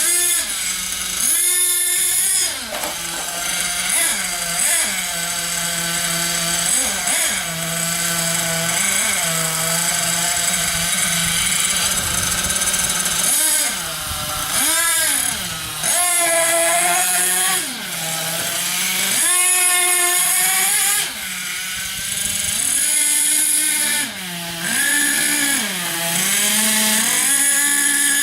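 Small nitro engine of a Thunder Tiger MTA4 radio-controlled monster truck, running with a high-pitched buzz and revving up and down over and over as it is driven, with short drops in between.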